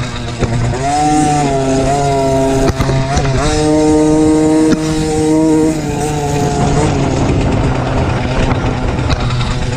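MXF 50 Pro Racing 50cc motocross minibike engine revving under throttle: the pitch climbs, holds high for about two seconds in the middle, drops back about two-thirds of the way through, then climbs again near the end.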